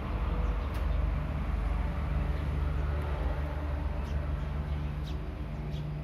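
A steady low engine-like hum, with faint short high chirps in the second half.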